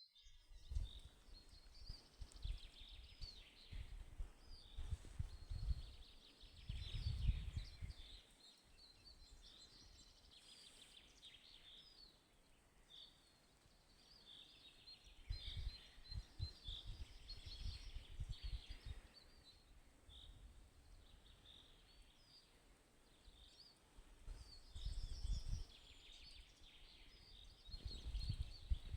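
Several songbirds chirping and trilling in spring song. Three spells of low rumble come and go beneath the birdsong and are the loudest part.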